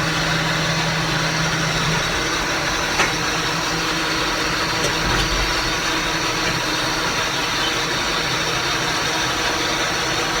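Tractor engine running steadily, with a round baler working behind it, heard from inside the cab with the back window open. A couple of light knocks come through about three and five seconds in.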